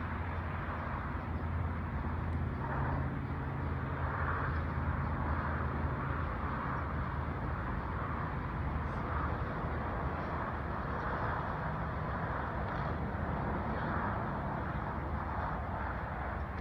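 Golf cart driving: a steady low running drone with a wash of tyre and wind noise, unchanging throughout.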